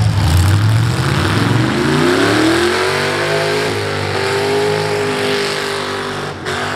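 V8 demolition derby car engine revving up, climbing in pitch over about a second and a half, then held at high revs, with a brief dip near the end.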